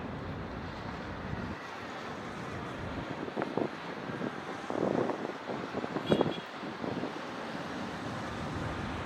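City ambience: a steady wash of distant traffic with wind on the microphone, and a few brief louder sounds in the middle.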